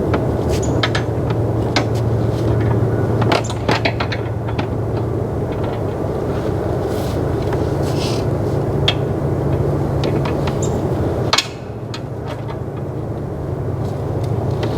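Four-wheeler engine running steadily at idle, with scattered clicks and knocks of tie-down straps and buckles against the metal rack. A sharper knock comes about eleven seconds in, and the engine sound dips briefly after it.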